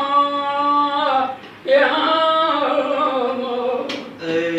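Unaccompanied voice singing long, drawn-out notes of an Iraqi folk song. The line breaks off for a breath about a second and a half in, then a second phrase slides downward near the end.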